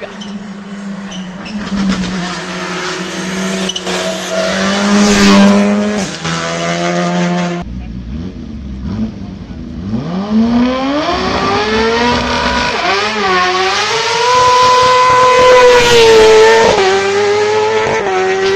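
Hillclimb race car engines at full volume: a car revving for the first several seconds, then after an abrupt cut another car accelerating hard, its engine pitch climbing steeply with a few brief dips in pitch.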